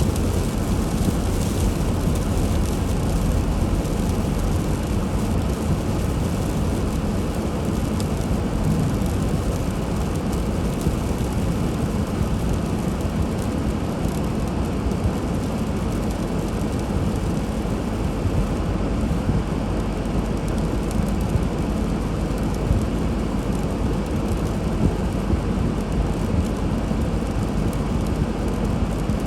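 Steady low rumble and hiss of a car driving: road and engine noise, even throughout.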